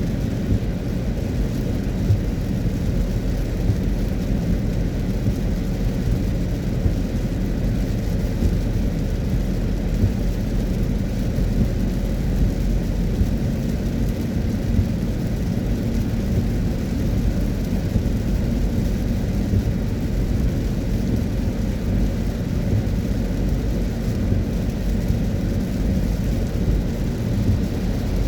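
A car driving on a wet road in the rain: a steady low rumble of road and tyre noise, with rain pattering over it.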